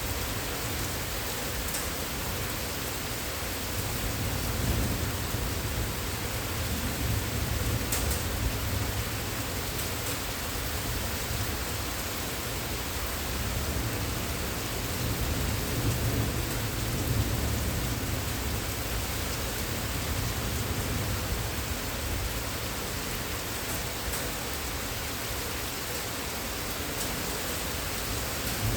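Steady rain falling, a continuous even hiss, with a low rumble underneath that swells about four seconds in and again around the middle.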